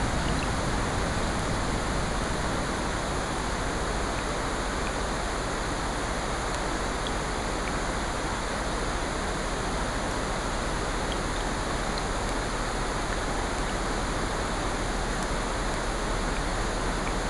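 Layered sleep ambience of rain and ocean surf: a steady, even hiss with a few faint crackles scattered through it.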